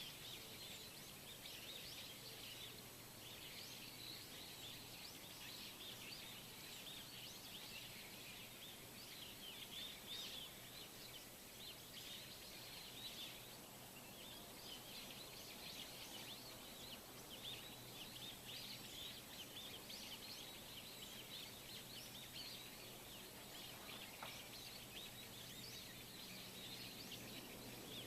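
Faint natural outdoor ambience: many small birds chirping and twittering at once in a continuous, overlapping chorus, over a faint steady low hum.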